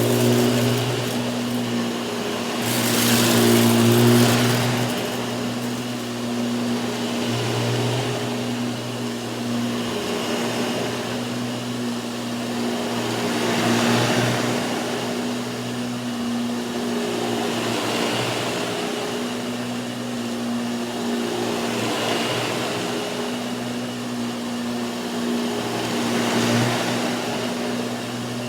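Hoover WindTunnel 2 upright vacuum cleaner running, a steady motor hum under a rushing of air that swells and eases every few seconds.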